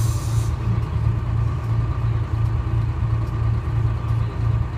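Detroit Diesel 6V71 two-stroke diesel of a GMC New Look bus idling steadily, its low drone pulsing about three times a second. A short air hiss sounds right at the start.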